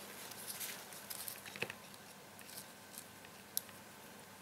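Small clicks, taps and rustles of hands handling a circuit board and a large plastic DIP chip, with a busy run of clicks in the first two seconds and one sharp click about three and a half seconds in.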